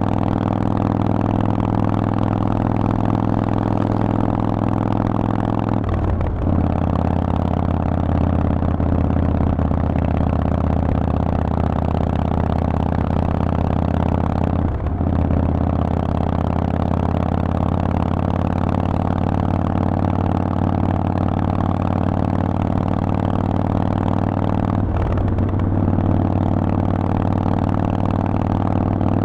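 Harley-Davidson Forty-Eight's air-cooled V-twin, with a Vance & Hines aftermarket exhaust, running at a steady pace while riding. The note breaks briefly three times, about nine or ten seconds apart.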